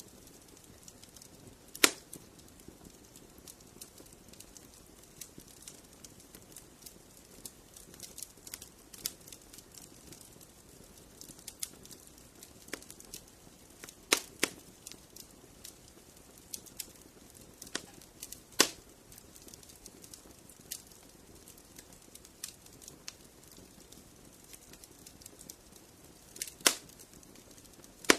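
Wood fire in a fireplace crackling: a quiet steady hiss with frequent small snaps, and a few louder pops about 2, 14, 18 and 26 seconds in.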